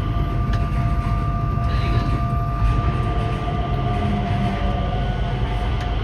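Changi Airport Skytrain, a rubber-tyred automated people mover, running: a steady low rumble with a steady electric whine over it.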